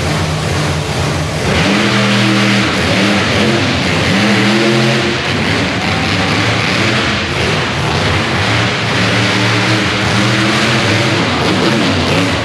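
Monster truck engine revving hard and repeatedly, its pitch climbing and dropping again and again over a loud, rough wash of exhaust noise.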